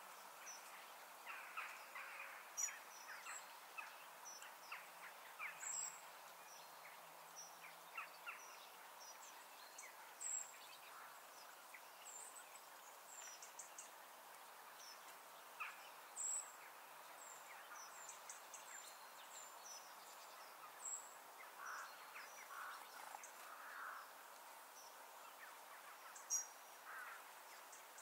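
Wild birds chirping and calling in short, scattered high notes over a faint, steady open-air hush.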